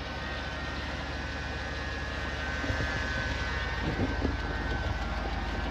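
Chevy Silverado 2500HD pickup's engine idling steadily, a low even hum.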